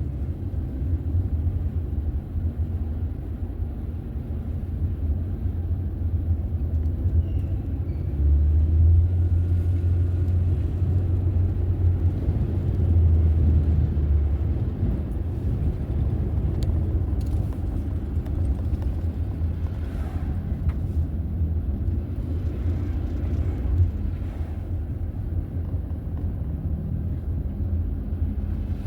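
A car driving along the road, a steady low rumble of engine and tyre noise.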